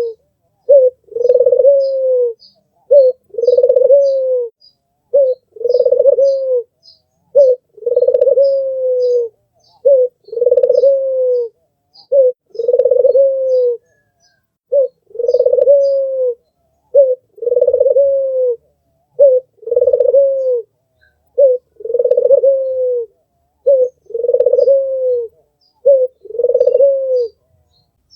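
Albino Barbary dove (puter) cooing: a short note followed by a longer, falling coo, the pair repeated about every two seconds. Faint high chirps from small birds sound behind it in the first half.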